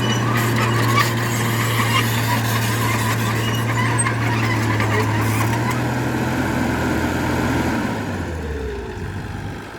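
Heavy earthmoving machine's diesel engine running steadily under load, with scattered short metallic squeaks. Near the end the engine note drops in pitch and fades as the machine slows down.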